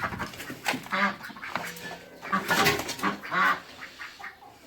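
Domestic poultry calling, several separate calls one after another as the birds come to their feed.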